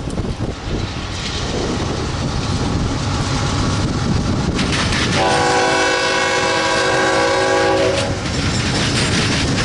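A passing train rumbling and clattering, with the locomotive's horn sounding one long blast about halfway through, several notes at once as a chord, and starting again near the end.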